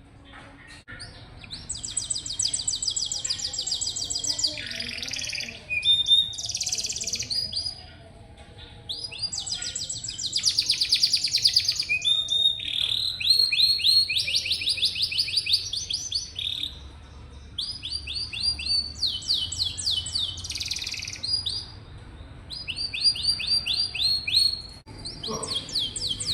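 Domestic canary singing: a long song of rapid trills, each a quick run of one repeated high note, changing to a new trill every second or two with a couple of short breaks. The song starts about a second and a half in.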